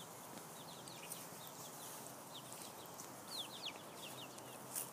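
Chickens in a chicken tractor chirping and clucking faintly, short high calls in small clusters, over a steady background hiss.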